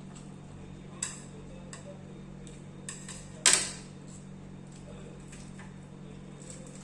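Eating sounds of cutlery and dishes: a few light clicks, and one much louder sharp clatter about three and a half seconds in, over a steady low hum.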